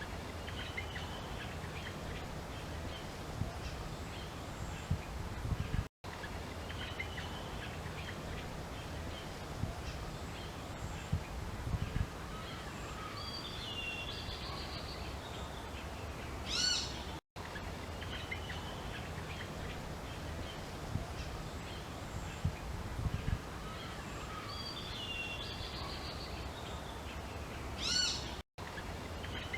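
Nature-sound recording of assorted birds chirping and calling over a steady low rumble. The same stretch repeats about every 11 seconds, each time after a brief dropout to silence.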